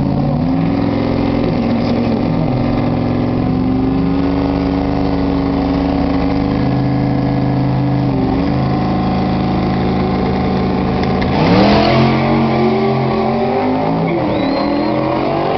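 Race car engines running loud at held high revs, the pitch dipping briefly a couple of times, then a louder surge with rising revs about eleven and a half seconds in.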